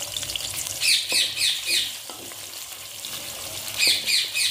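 Onions sizzling steadily in hot ghee in a metal kadai, stirred with a wooden spoon. Two runs of three or four shrill, falling chirps sound over the sizzle, about a second in and again near the end.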